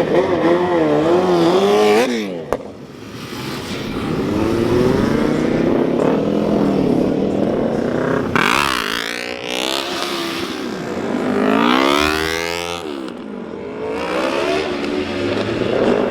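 Motorcycle engines revving, the pitch climbing steeply and dropping back several times as the bikes accelerate, with the strongest rises about eight and eleven seconds in.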